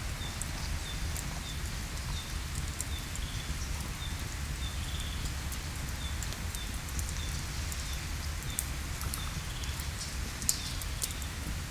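Outdoor ambience: scattered sharp crackles over a steady low rumble, with a short high chirp repeating about every two-thirds of a second.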